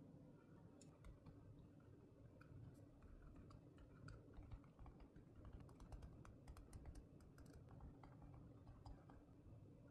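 Faint small clicks and taps from hands working with stationery at a desk, with a quick run of clicks in the middle.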